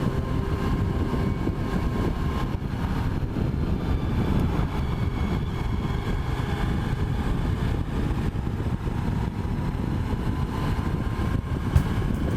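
Honda VFR motorcycle riding along, its engine running steadily under heavy wind rumble on the microphone.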